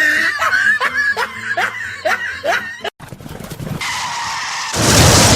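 A person laughing in short repeated bursts. After an abrupt cut, a loud rushing noise swells near the end.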